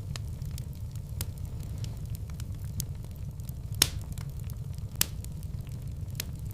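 Wood fire burning in a fireplace: a steady low rumble with scattered crackles and pops, two louder pops about four and five seconds in.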